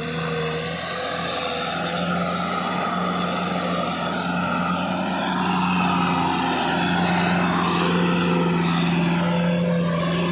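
Kubota tractor engine running steadily in a constant drone, growing a little louder about halfway through.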